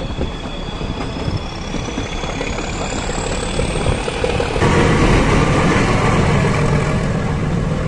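Ooty toy train (Nilgiri Mountain Railway) running, heard from on board: a steady low rumble of engine and wheels, with a thin high whine slowly rising in pitch. About four and a half seconds in, the noise suddenly gets louder and fuller.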